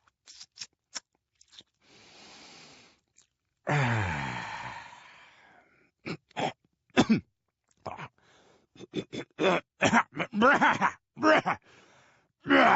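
A man making wordless 'dad noises'. There is a breathy exhale, then a long groaning sigh that falls in pitch. After that comes a quick run of mouth clicks and smacks mixed with short grunts and hums.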